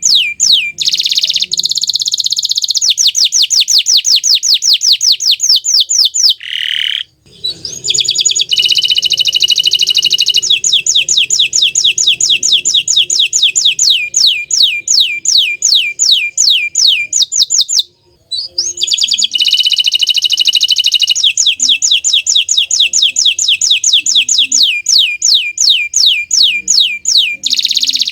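A bottle-green domestic canary singing loudly: long runs of fast, repeated, falling sweep notes and dense rolling trills. The song breaks off briefly twice.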